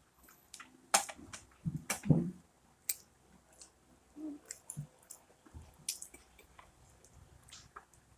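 Close-up eating sounds of people chewing and biting soft brownies, with scattered wet clicks and smacks of the mouth.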